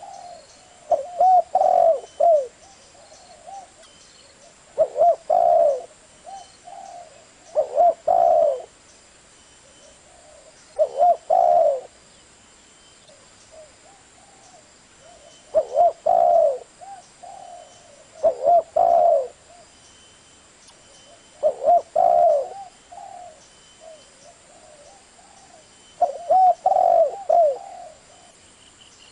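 Spotted dove cooing: a repeated phrase of low, wavering coo notes, given about every three seconds.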